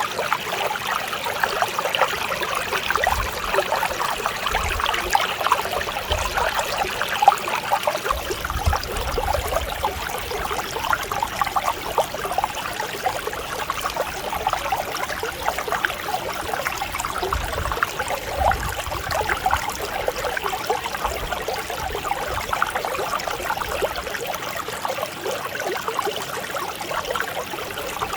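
Mountain stream babbling and trickling over rocks, a steady, even flow of water.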